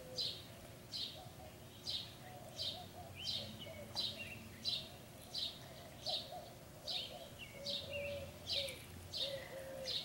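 A small bird chirping steadily: short high notes, each sliding down in pitch, about one and a half a second.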